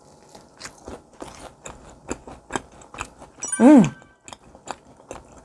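Close-up eating sounds: biting into and chewing a fried cheese ball, with a string of short crisp crunches and wet chews. A brief vocal sound about three and a half seconds in is the loudest moment.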